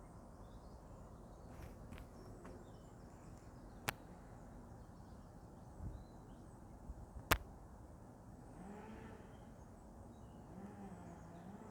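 Faint steady outdoor background rumble with a few sharp clicks, the loudest about seven seconds in, and faint wavering sounds near the end.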